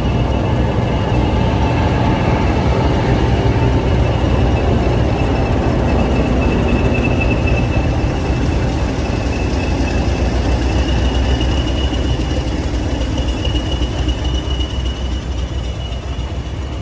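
Heritage diesel-hauled train running, its engine giving a loud, steady low rumble. A thin high whine grows stronger about halfway through.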